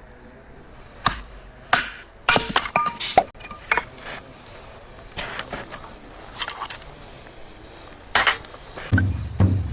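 Irregular chopping knocks on wood, a dozen or so sharp strikes, some in quick clusters. Background music with a low drum beat comes in near the end.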